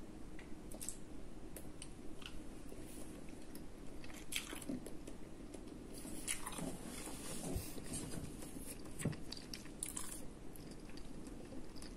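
Close-up chewing and wet mouth noises of someone eating vegetable pasta, with a few sharp clicks scattered through.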